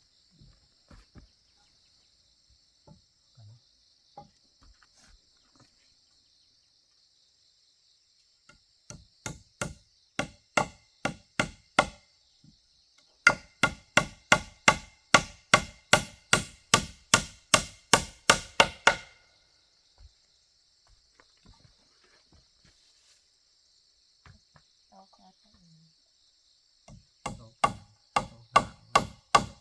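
A tool striking wood in quick, even blows, about three a second, in runs of a few seconds with pauses between. Insects buzz steadily in the background.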